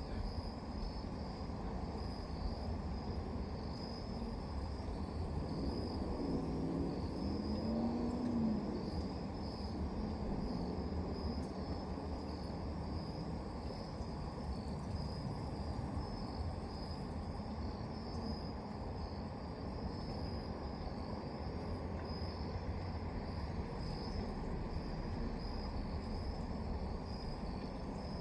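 Crickets chirping in a steady pulsing chorus over a constant low background rumble. A low hum swells and fades about seven to nine seconds in.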